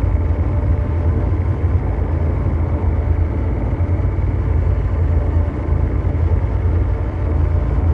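Ambient mechanical drone noise: a steady, deep engine-like rumble with a dense brown-noise wash above it, unchanging throughout.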